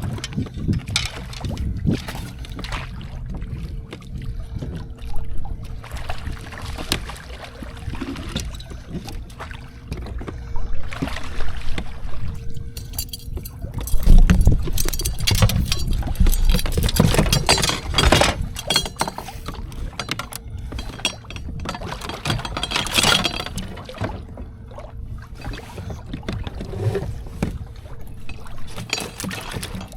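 Water sloshing and splashing against a kayak hull, in irregular surges over a steady low rumble, with a faint steady hum underneath.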